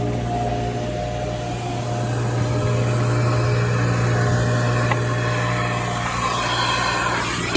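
Car wash vacuum running: a steady motor hum with the rush of air through the hose. The suction rush grows louder over the last couple of seconds as the nozzle works.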